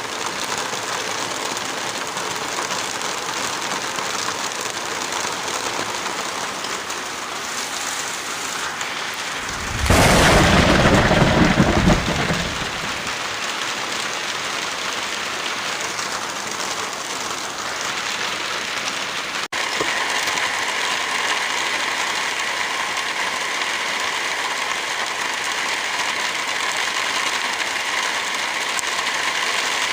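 Steady rain falling, with a loud clap of thunder about a third of the way in that rumbles low for about two seconds. About two-thirds of the way through the sound cuts out for an instant, and the rain comes back slightly louder with a different texture.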